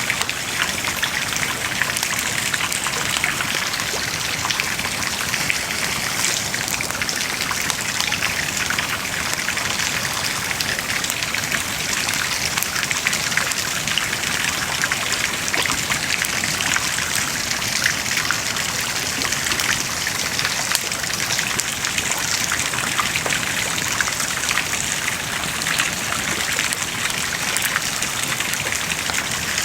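Wood bonfire burning with a steady, dense crackle: many small snaps and pops over a continuous hiss.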